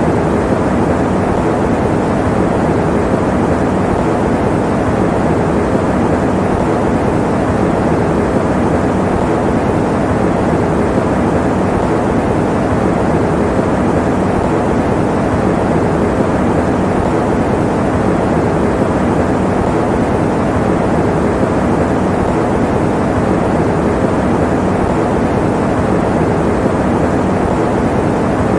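Electric fan running steadily: an even, unbroken rushing noise, full in the low and middle range and dull in the treble.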